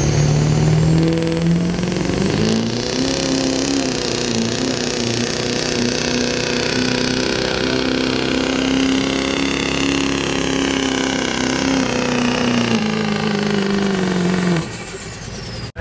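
Turbocharged diesel pickup at full throttle, pulling a weight sled. The engine pitch climbs about two seconds in and then holds steady under load, with a high turbo whistle rising above it. Near the end the pitch falls away and the engine cuts back sharply as the pull ends.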